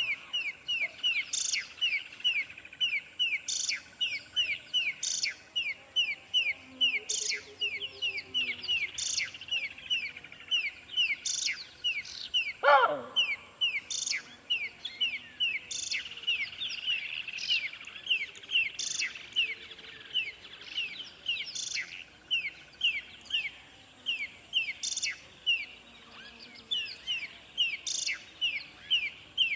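Songbird chirping: short falling chirps repeated two or three times a second, with other higher bird calls over it. About a third of the way in, a single loud sound slides steeply down in pitch, the loudest thing here.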